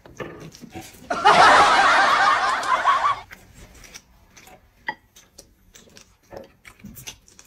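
A burst of snickering laughter, about two seconds long, starting about a second in and cutting off suddenly, like an added comic laugh sound effect. After it come scattered faint clicks and small eating noises.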